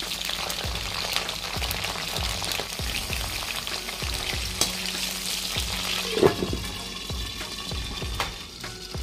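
Green chillies frying and spitting in hot oil in a non-stick kadai, crackling steadily while a steel slotted spatula stirs and scrapes them. About six seconds in, a steel lid is set on the pan with a sharp clank, and the crackling becomes quieter under it.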